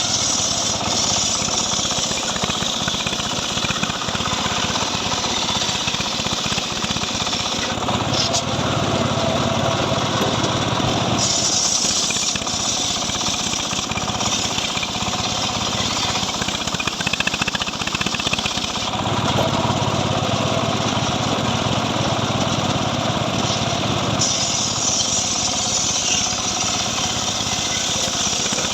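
Stihl MS 382 two-stroke chainsaw running steadily under load while ripping dry mahogany. The cutting sound shifts every few seconds, turning brighter and sharper for stretches as the chain bites harder.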